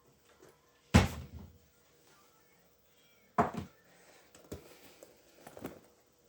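A few separate thuds and knocks, the loudest about a second in, another strong one about three and a half seconds in, and two softer ones near the end.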